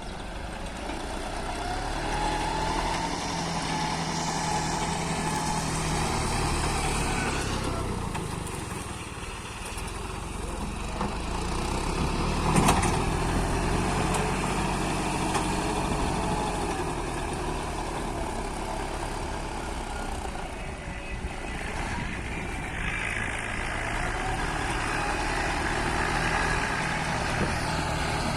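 Tractor engine running, its note rising and easing in stretches as the load changes, with one sharp knock about halfway through.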